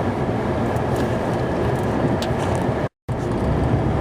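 Plow truck driving, a steady engine and road rumble heard from inside the cab. The sound cuts out completely for a moment about three seconds in, then resumes.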